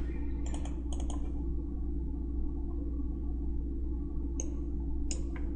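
Computer mouse clicking a few times: a quick pair about half a second in, another about a second in, then single clicks near the end, over a steady low hum.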